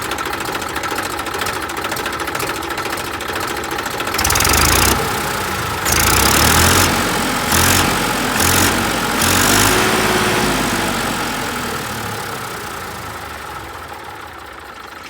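Massey Ferguson 1035 DI tractor's three-cylinder diesel engine, with its silencer fitted, idling and then revved in several short bursts from about four to ten seconds in. After that the sound fades away.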